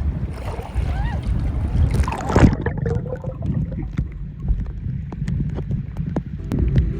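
Rumbling, churning water and wind noise on the microphone, with a louder rush about two and a half seconds in.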